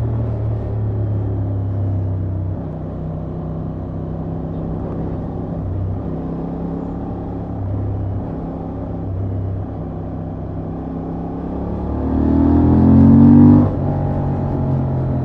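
Honda XL750 Transalp's 755 cc parallel-twin engine running under way through its stock exhaust, its pitch shifting a little as the throttle changes. About twelve seconds in the revs climb loudly for a second and a half, then drop away suddenly.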